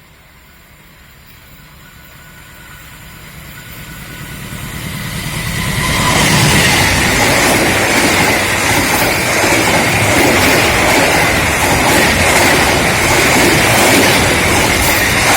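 A diesel-hauled passenger train approaching and passing close by: the noise builds over about six seconds, then holds as a loud, steady rush of wheels on rail with repeated clicks over the rail joints.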